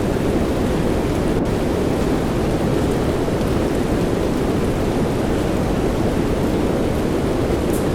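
Steady soft-rain white noise: an even, unchanging rush with most of its weight in the low and middle range, and no distinct drops or thunderclaps.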